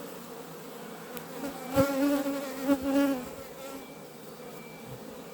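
Honeybees buzzing at an open hive, a steady hum that swells louder for about a second and a half in the middle. Two short knocks come during that louder stretch.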